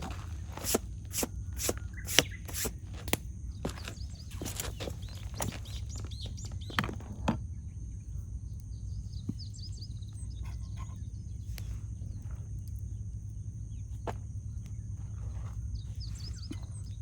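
Wood campfire crackling with sharp pops, thick through the first seven seconds or so and then only now and then, with small birds chirping faintly in the background.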